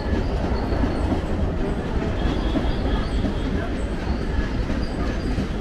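Mumbai suburban local train (Western Railway electric multiple unit) running along the track, a steady, even noise of wheels on rails.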